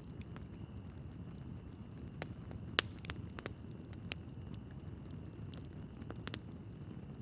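Logs burning in a fireplace: a steady low rustle of flames with scattered sharp crackles and pops, the loudest pop a little under three seconds in.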